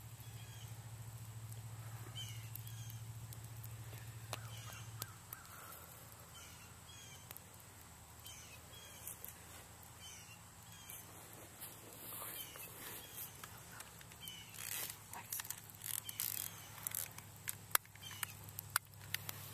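A bird calling over and over with short chirps, often in pairs, over a faint outdoor hum. Near the end come a few sharp crackles and rustles.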